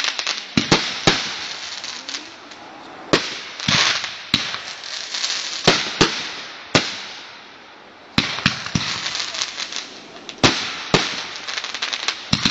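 Firecrackers going off: sharp bangs at irregular intervals with stretches of rapid crackling, dying down briefly a little past the middle before picking up again.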